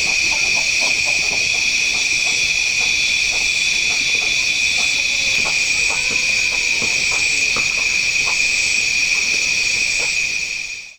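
A loud, steady, high-pitched shrill drone that holds one pitch with higher overtones, with faint short sounds beneath it; it fades out and cuts off right at the end.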